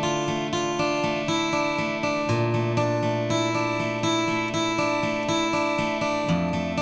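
Background music: acoustic guitar strummed in a steady rhythm, chords changing every couple of seconds.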